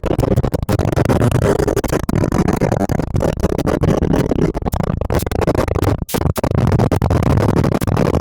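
Wind buffeting and road noise on a motorcycle rider's microphone while riding at speed: a loud, steady rush full of crackle.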